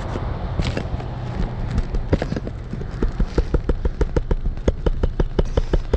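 Rapid, regular light taps of a hammer on a shingle ripper (snake bar), about five a second, starting about two seconds in, as it is driven under an asphalt shingle to get at the roofing nails.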